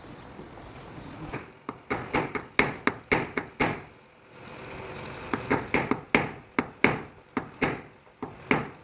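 Hammer taps on a car body panel in paintless dent repair, knocking down the metal: two runs of quick, irregular sharp taps, about two or three a second, with a short pause between them.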